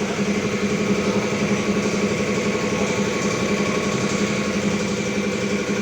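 A small engine or motor running steadily at a constant speed: an even hum with a fast flutter.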